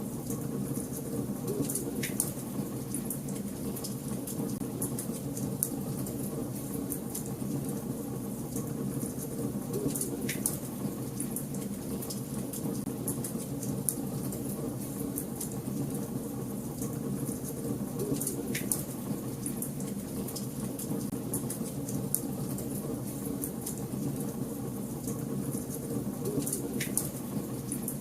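Wood fire burning in a fireplace, crackling continuously with small snaps over a steady low rumble. Four louder pops stand out, about eight seconds apart.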